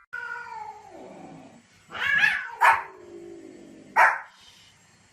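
A dog vocalising: a long call that falls steadily in pitch, then a louder call about two seconds in, followed by two short sharp barks.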